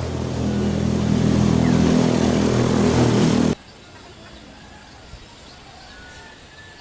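A motor vehicle's engine running close by and getting louder, cut off abruptly about three and a half seconds in. After that comes a quiet background with a few faint, short chirps from small birds.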